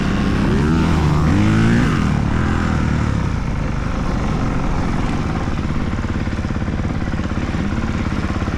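Dirt bike engine, its revs rising and falling for about the first two seconds, then running steadily at low revs with an even, rapid pulse.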